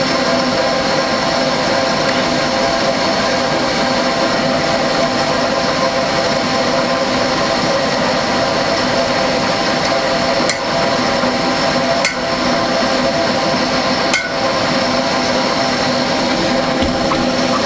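A small electric motor running steadily with a constant whine made of several steady tones. It is broken by three brief clicks with small dips in level past the middle.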